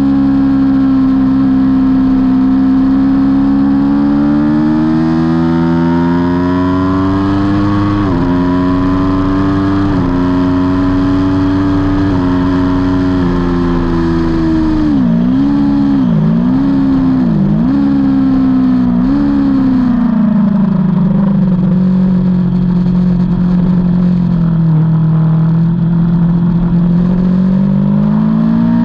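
Aprilia Tuono V4 motorcycle's V4 engine at race pace. It pulls up through the gears, with the note stepping down at each upshift. About halfway through it dips and jumps back three times in quick succession, as on downshifts under braking. It then runs at lower revs for a while before climbing again near the end.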